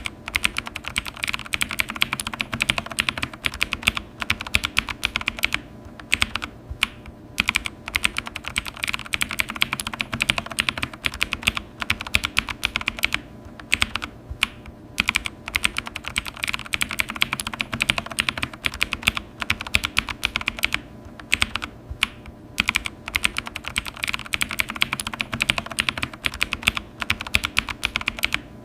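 Typing on a computer keyboard: fast, continuous key clicks with short pauses every few seconds.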